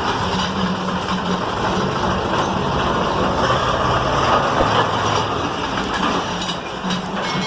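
Eicher 485 tractor's diesel engine running steadily while pulling a fully loaded trolley: a low engine drone under a wide rushing noise.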